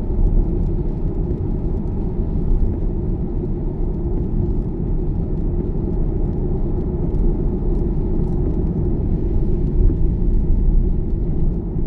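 Steady low road rumble heard inside an electric car's cabin, a Tesla, while driving: tyre noise on a wet road, with no engine note.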